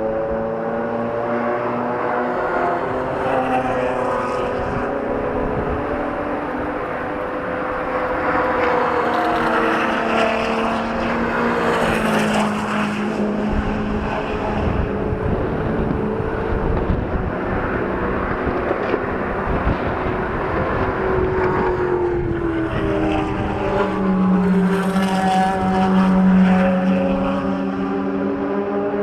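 Supercar engine exhaust running throughout, its pitch rising and falling as the engine revs, with the loudest pass about 24 to 27 seconds in.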